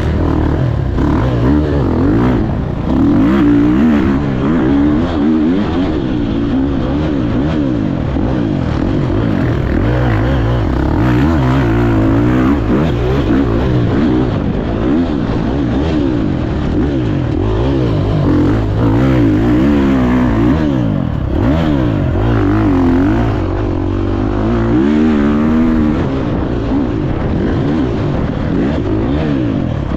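Motocross dirt bike engine being ridden hard, its pitch rising and falling every second or two as the throttle opens and closes.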